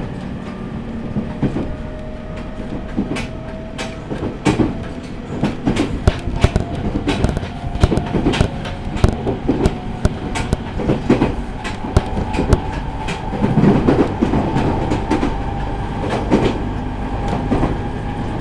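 Running sound inside a JR East E501 series electric train at speed: a steady rumble with rapid irregular clicking of wheels over rail joints, and a thin motor whine that rises slowly in pitch as the train picks up speed.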